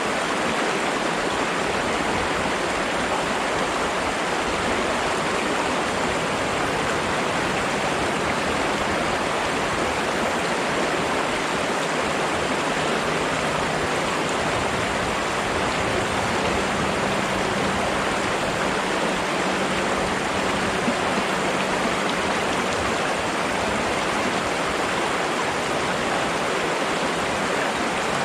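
Flowing water rushing steadily, an even, continuous sound with no breaks.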